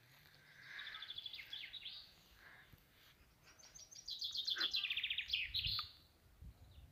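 Songbird singing: two phrases of rapid, evenly repeated high notes, the second one longer, with a short pause between them.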